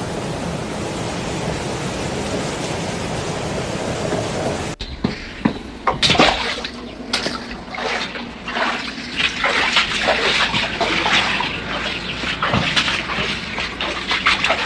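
Flowing floodwater: a steady rush of water. About five seconds in it cuts abruptly to irregular splashing and sloshing.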